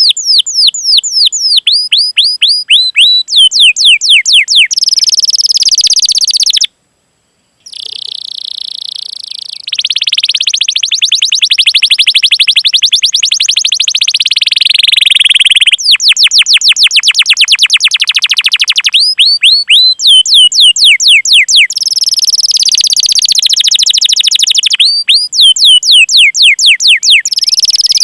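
Canary singing loudly: runs of quick down-slurred 'cuit' whistles, several a second, alternating with long, very fast trilled rolls. The song breaks off briefly about seven seconds in.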